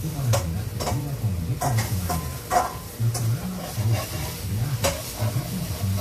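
Tofu sizzling as it fries in a pan, with a spatula clicking and scraping against the pan a dozen or so times. A low wavering hum runs underneath.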